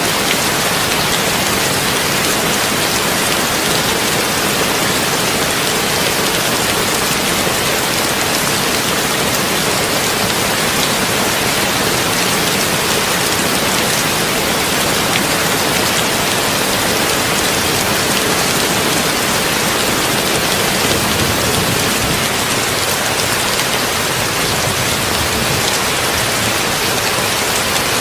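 Heavy rain falling on a tin roof: a dense, even hiss that holds steady throughout.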